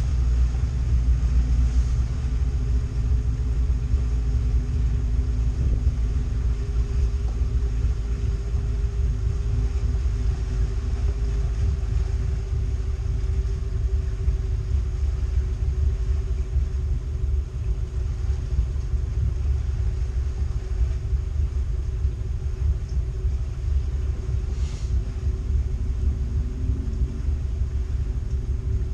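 Boat engine running steadily under way, a low drone with a faint steady hum, mixed with wind rumbling on the microphone.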